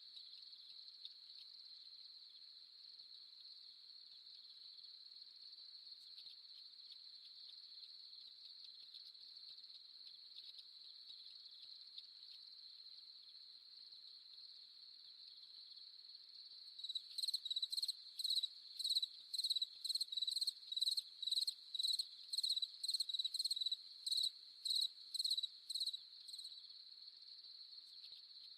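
Crickets trilling in a steady, high-pitched night chorus. A little past halfway a louder, closer chirping joins in, about two evenly spaced chirps a second, and stops shortly before the end.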